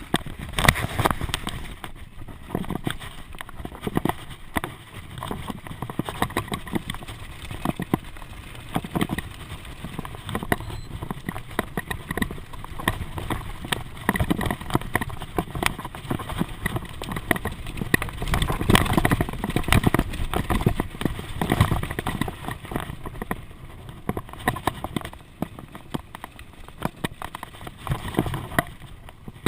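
A bicycle being ridden, rattling and knocking irregularly over bumps, with a low wind rumble on the microphone.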